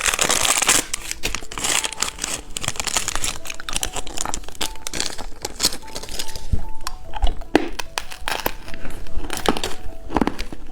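Plastic candy wrapper crinkling and being torn open, a dense run of sharp crackles throughout.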